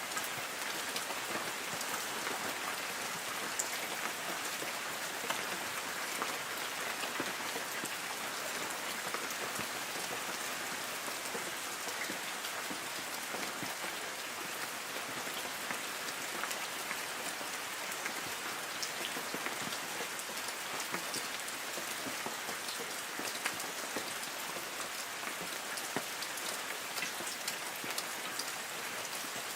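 Light rain falling steadily on forest trees: an even patter, with many single drops ticking on the leaves.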